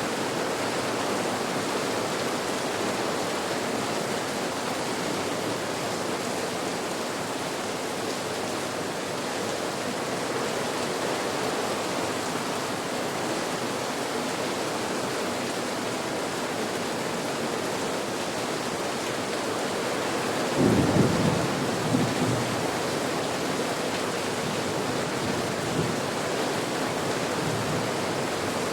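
Steady rain, an even hiss. About two-thirds of the way in, a low rumble of thunder lasts a couple of seconds.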